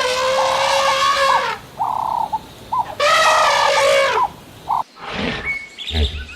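An animal calling: two long, drawn-out wavering cries, with shorter overlapping calls between them. Near the end a different, lower animal sound begins.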